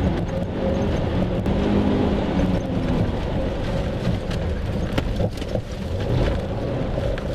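Car engine running while driving, with a steady rushing hiss and scattered sharp ticks over a low rumble.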